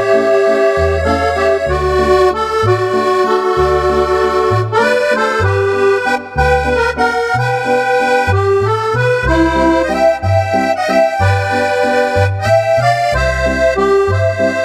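Roland FR-8X digital accordion set to its electronic Cordovox voice, playing a tune. A melody in held chords runs over a steady oom-pah of alternating bass notes, with a short break about six seconds in.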